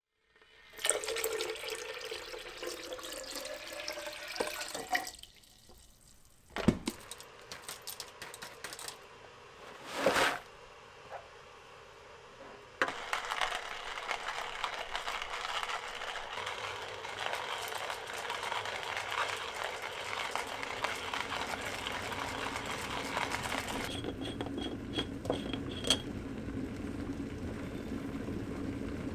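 Water running, as from a tap into a sink, in two longer stretches with a few clicks and knocks in a quieter gap between.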